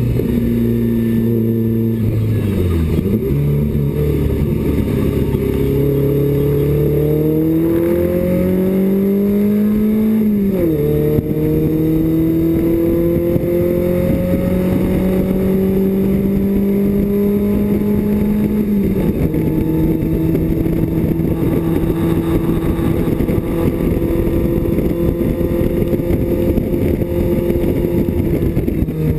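BMW 2002 race car's four-cylinder engine heard from inside the cockpit at racing speed, its note climbing steadily through each gear and dropping suddenly at upshifts about eleven and nineteen seconds in, then holding steady.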